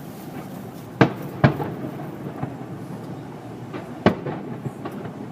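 Aerial fireworks bursting: two loud booms about a second apart early on and another near four seconds in, with a few smaller pops between them over a steady background noise.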